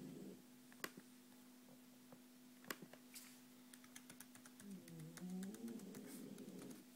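Quiet laptop keyboard and trackpad clicks: a few single taps, then a quick run of light key presses about three seconds in, over a steady low hum.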